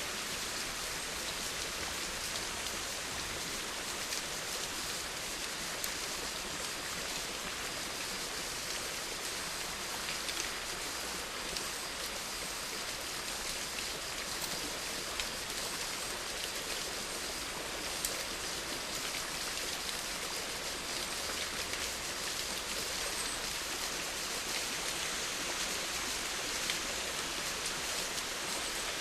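Steady rainfall, a dense even hiss with scattered individual drops ticking on a surface.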